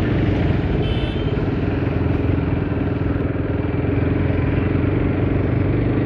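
Bajaj Pulsar RS200 single-cylinder engine running steadily while the motorcycle is ridden slowly through traffic, with road and wind noise over it.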